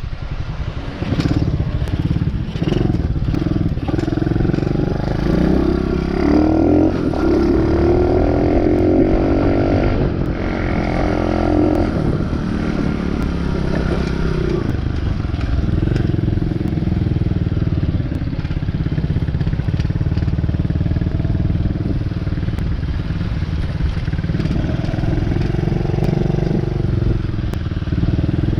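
DB14 dirt bike's small single-cylinder engine running under way. The revs climb about five seconds in, then it settles to a steadier pitch while cruising.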